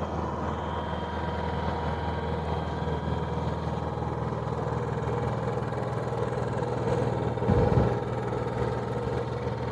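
Honda EU7000is fuel-injected inverter generator running steadily with its eco throttle off, an even engine hum. A brief louder low rumble comes about seven and a half seconds in.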